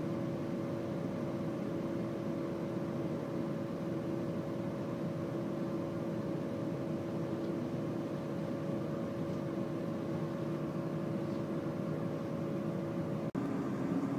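Steady running noise inside a moving electric train, a constant rumble with a steady hum over it. There is a brief dropout near the end, after which the hum sits slightly lower.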